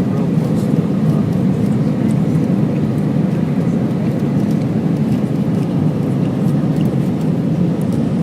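Steady cabin drone of an Airbus A319 airliner in flight: jet engine and airflow noise heard from inside the passenger cabin, an even low rumble that does not change.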